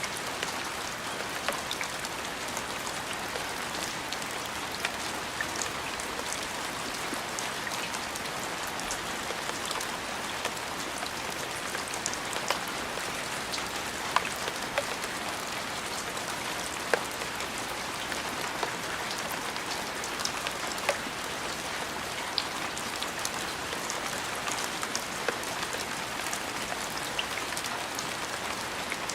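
Steady rain falling on a surface, with many individual drops ticking sharply through the even hiss.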